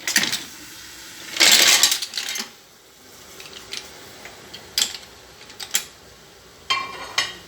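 Shellfish in their shells tipped into a pot of fried vegetables, clattering against each other and the metal: a loud burst of clatter about a second and a half in, then a few sharp knocks and a shorter clatter near the end.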